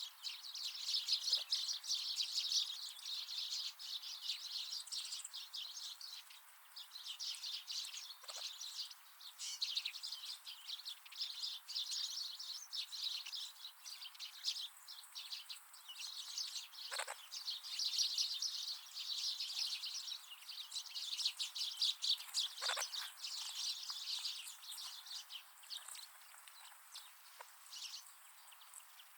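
A flock of wild birds chirping and twittering continuously, many short overlapping calls with no pause, with a few faint clicks now and then.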